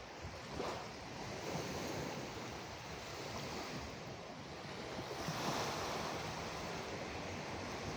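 Ocean waves washing in, a steady surf hiss that swells and eases, with one wave building louder about five seconds in.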